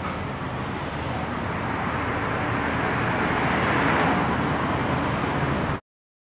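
A car driving, engine and road noise growing louder to about four seconds in, then cutting off abruptly near the end.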